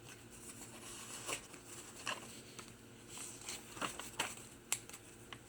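Pages of a handmade paper journal being turned and handled: faint rustling and crinkling of paper with scattered light taps and clicks.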